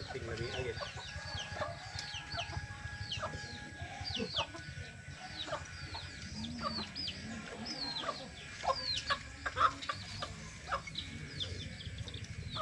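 Chickens calling: a steady run of short, high chirps that fall in pitch, two or three a second, with a few soft low clucks in the middle.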